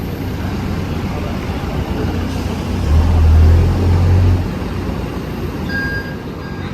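Steady low rumble and air hiss of a vehicle or aircraft interior. A louder, deeper rumble swells for about a second and a half in the middle, and a brief high tone sounds near the end.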